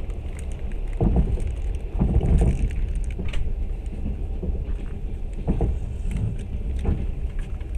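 Train running along the track, heard from inside the carriage: a steady low rumble of wheels on rails with a few louder knocks.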